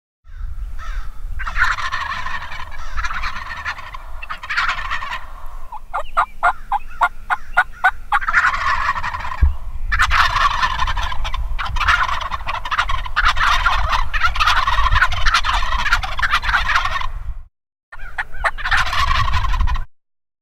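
Wild turkey toms gobbling, long rattling gobbles in quick succession from several birds, with a steady low rumble underneath.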